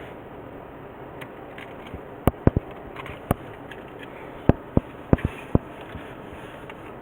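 A run of about nine short, sharp clicks, bunched between two and six seconds in, over a steady hiss.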